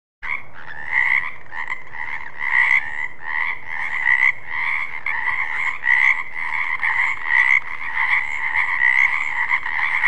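Frogs croaking in a continuous run of repeated calls, about two a second, starting abruptly just after the beginning.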